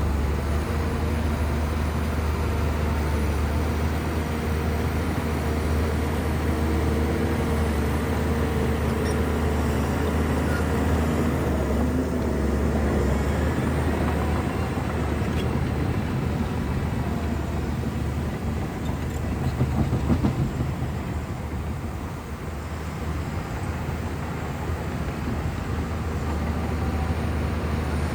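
Shantui bulldozer's heavy diesel engine running steadily under load, with a deep constant hum; it swells briefly about two-thirds of the way through, then eases.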